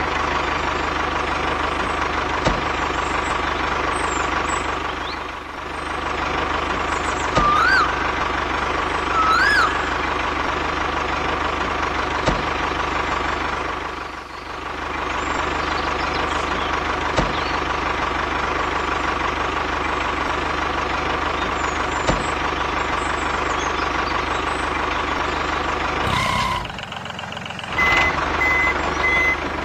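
Tractor engine running steadily at idle. Two short rising-and-falling chirps come about 8 and 10 seconds in, and a repeating reversing beep starts near the end.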